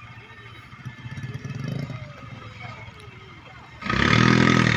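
Vehicle engine revving under load, rising in pitch and level about a second in. About four seconds in it becomes much louder and abruptly harder, with a steady hum and a hiss.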